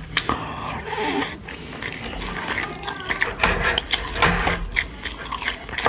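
Close-miked eating of gamjatang (pork-bone soup): wet chewing and mouth smacks with many short clicks.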